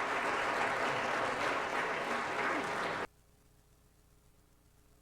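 Congregation applauding; the clapping cuts off abruptly about three seconds in.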